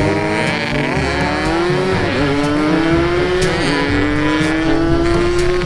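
Yamaha RX-King's 135 cc two-stroke single-cylinder engine accelerating through the gears. Its pitch climbs steadily, dips twice as it shifts up (about two seconds in and again about three and a half seconds in), and climbs again.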